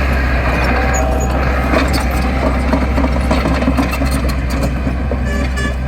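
Heavy construction machine's diesel engine running steadily, with scattered clanks and knocks over it.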